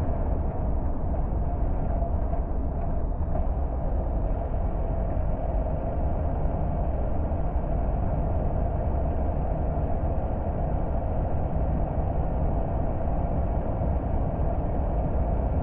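Car driving along a road: a steady rumble of engine and tyres on the road surface, heavy and deep, holding an even level throughout.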